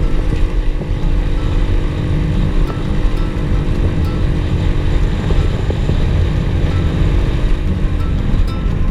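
Pit bike engine running steadily under way, with a heavy low rumble throughout.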